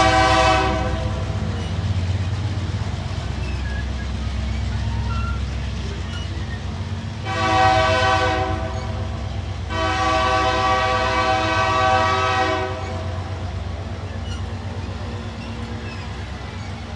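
Diesel freight locomotive sounding its horn: a blast that cuts off just after the start, a short blast about seven seconds in, and a longer blast of about three seconds soon after, over the steady low rumble of the passing train.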